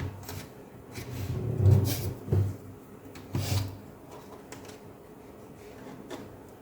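Scattered knocks, clicks and rubbing of a laptop battery being handled and freed from an opened laptop chassis, busiest in the first few seconds, then a quieter stretch with one last tap near the end.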